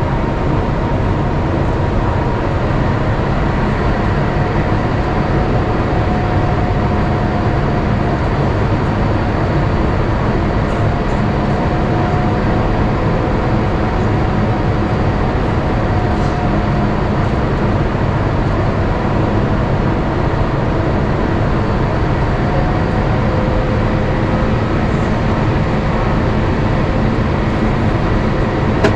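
Steady cabin noise inside an Airbus A350-900 in flight on descent toward landing: the even rush of airflow and its Rolls-Royce Trent XWB engines, with faint engine tones that drift slightly in pitch.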